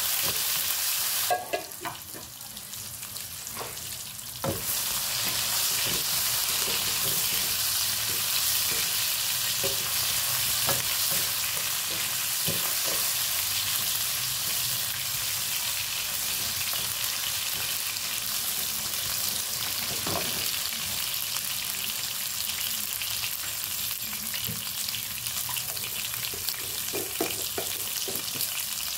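Monkey head (lion's mane) mushroom pieces frying in hot oil in a wok, a steady sizzle that dips for a few seconds near the start. Occasional light knocks and scrapes come from the plastic slotted skimmer turning the pieces in the pan.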